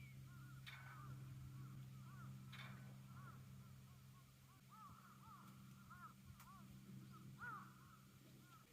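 Faint birds calling over and over, each call a short rise and fall, over a steady low hum. Two brief clicks come in the first few seconds.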